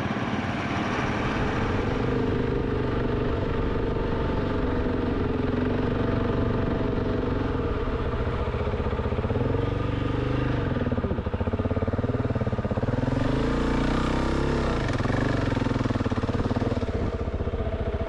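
Engine of a full-size 4x4 truck driving through deep sand, running steadily under load. Its pitch rises and falls several times in the middle as the engine speed changes.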